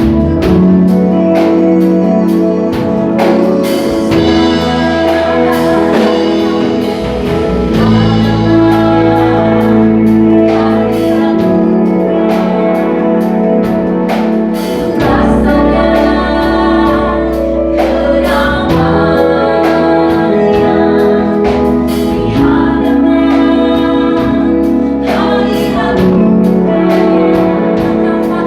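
Worship band playing with singing: a praise and worship song, with steady bass and drums.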